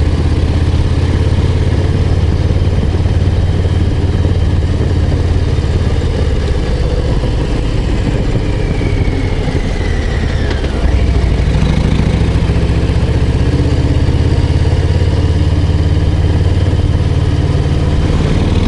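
Harley-Davidson Low Rider ST's Milwaukee-Eight 117 V-twin running steadily as the bike climbs a mountain pass road. About ten seconds in the engine note dips briefly, then comes back a little louder.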